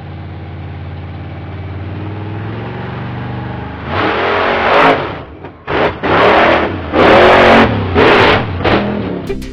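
Monster truck engine running with a low rumble that slowly rises in pitch, then revved hard in about five short, loud blasts.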